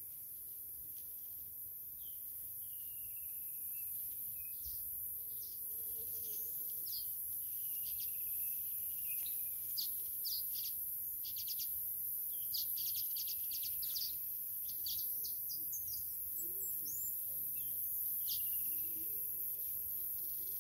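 Wild birds chirping and calling: falling whistled notes and short sharp chirps that come thick and fast from about eight seconds in, over a steady high hiss.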